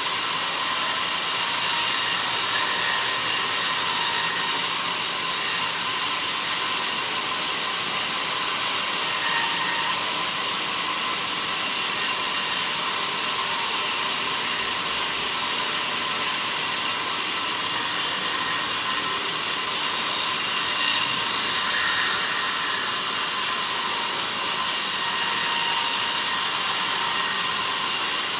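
Sawmill bandsaw cutting steadily through a log, a continuous high rasping saw noise with a steady ringing whine that does not let up.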